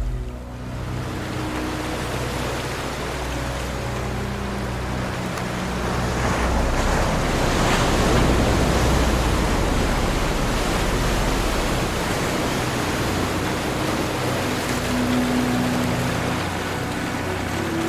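Ocean waves washing on a shore, one wave swelling to a peak about halfway through and then easing back. Faint steady low tones sit underneath.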